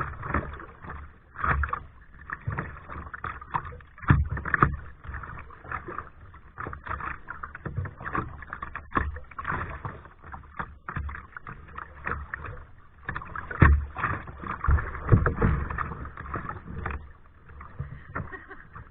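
Kayak paddling: paddle blades dipping and splashing in the water in uneven strokes, with louder splashes now and then.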